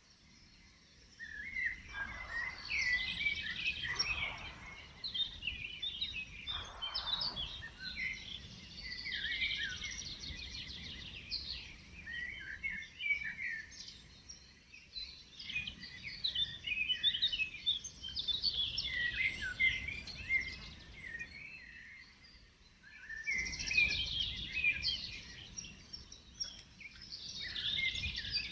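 A chorus of several woodland songbirds singing, with many short, overlapping chirping phrases. A low rustle of wind in the trees sits underneath.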